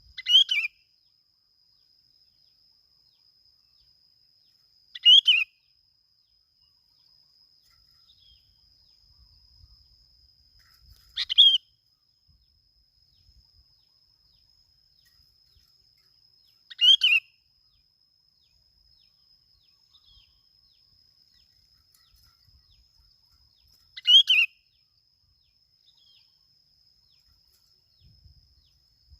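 A bông lau bulbul calling: five short calls, each under a second, spaced roughly six seconds apart, over a faint steady high-pitched whine.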